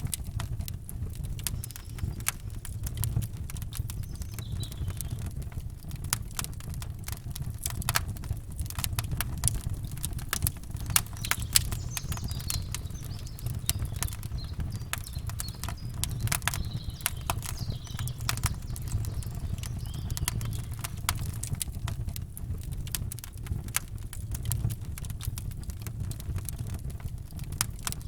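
Campfire burning, wood crackling and popping in quick irregular snaps over a steady low rumble, with faint bird chirps here and there.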